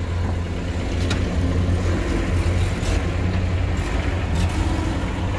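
Lada Niva 4x4's engine running steadily at low revs as it creeps off a car-hauler trailer, with a few faint clicks.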